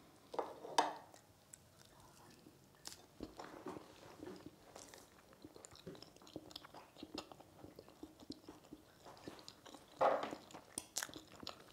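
A person chewing a bite of blini (thin pancake) dipped in sweetened condensed milk: quiet, irregular chewing sounds. A few light fork clicks on the plate come in the first second, and a louder knock near the end as the table knife is handled.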